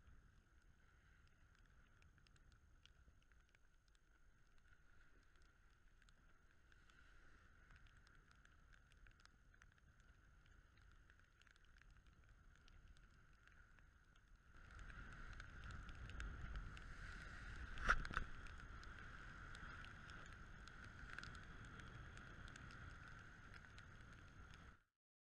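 Faint wind and water noise aboard a sailboat, with a steady high whine throughout and light scattered ticks. It grows louder and lower about two-thirds of the way through, with one sharp knock a few seconds later, then cuts off suddenly.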